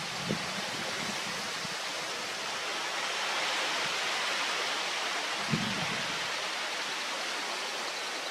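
Steady rushing hiss, like falling water, that swells a little midway, with two brief soft thumps: one just after the start and one about five and a half seconds in.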